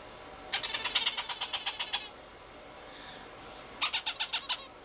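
Baby parrot chick giving its feeding-begging call while being hand-fed: two bouts of rapid squeaky chirping, about ten pulses a second, the second bout shorter and near the end.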